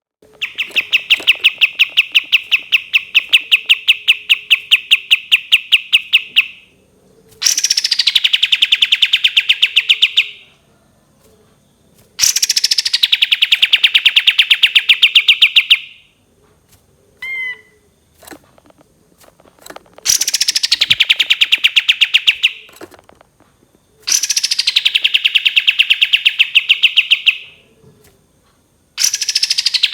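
Kapas tembak songbird singing long, rapid trills of one note repeated many times a second. Most trills open with a note sliding down from high, and about six bursts of three to six seconds each are separated by short pauses.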